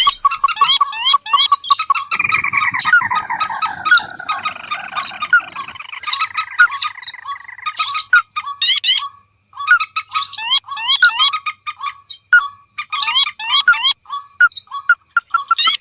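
A lure recording of rice-field and marsh birds such as rails, crakes and waterhens, several calling over each other: fast repeated notes and quick rising chirps throughout, with a long falling call over a rough low rasp for a few seconds near the start.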